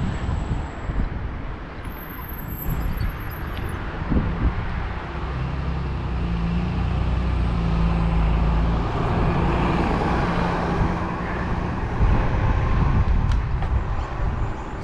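Road traffic passing: a motor vehicle's engine hum swells and fades in the middle, over a steady rumble of wind on the microphone.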